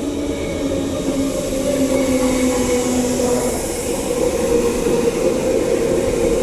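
Transperth electric suburban train at the platform, slowing to a stop with a steady electrical hum from its motors. A lower tone in the hum drops out about three and a half seconds in.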